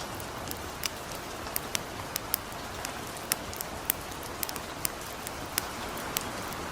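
Steady hiss of gentle rain with irregular sharp crackles and pops from a burning campfire, about a dozen and a half scattered through it.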